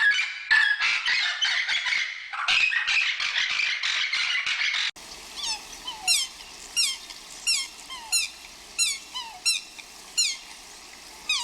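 Birds squawking in a dense, overlapping chatter. After a sudden cut, a single bird gives a repeated falling whistled call, about three calls every two seconds.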